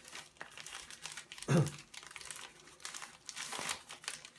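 Packaging crinkling and tearing as a parcel is unwrapped by hand, in a dense run of irregular crackles. About a second and a half in there is a brief voiced sound, a short grunt or murmur.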